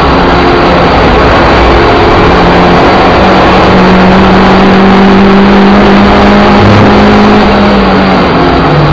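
Suzuki Ignis Sport's 1.5-litre four-cylinder engine running hard at high revs, heard loud from inside the stripped cabin over heavy road and wind noise. Its note holds steady, climbs slightly, then drops in pitch near the end.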